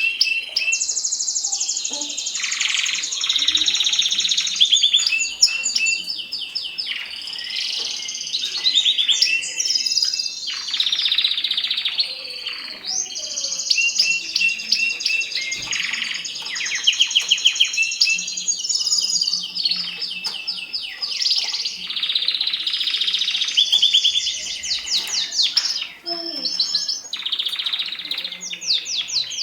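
Mosaic canary singing a long, unbroken song of fast trills and rattling rolls, switching to a new phrase every second or two.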